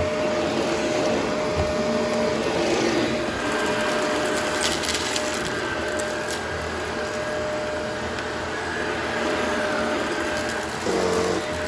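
Upright vacuum cleaner running steadily with a constant motor hum, and a short burst of crackles about five seconds in as debris is sucked up. Its pitch shifts briefly near the end.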